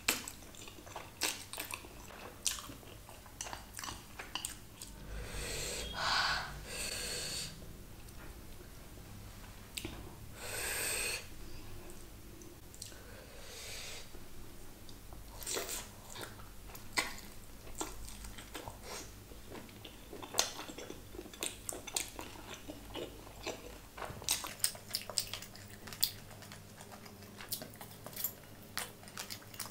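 Close-miked eating of fried Schezwan chicken lollipop and black bean noodles: chewing and biting, with many sharp wet mouth clicks and smacks. Two longer hissing sounds come about six and eleven seconds in.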